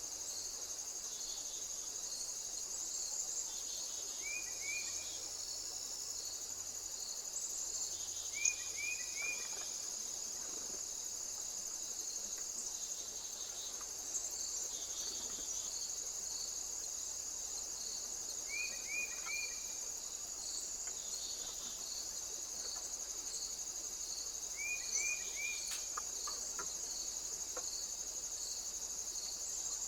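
Insects trilling steadily in a continuous high-pitched chorus. A bird's short call of three quick notes recurs every few seconds.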